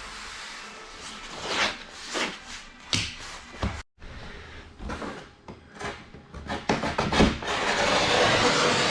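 Tape being pulled off the roll and plastic sheeting rustling as it is taped up, in short sharp rips and crinkles that grow into a denser, louder rustle near the end.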